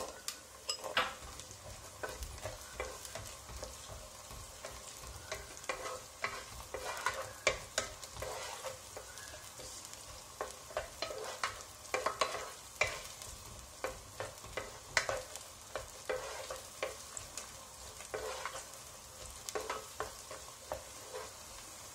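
Garlic cloves and ginger frying in hot sesame oil in a nonstick pan: a steady sizzle, broken by frequent irregular scrapes and knocks of a wooden spatula stirring them.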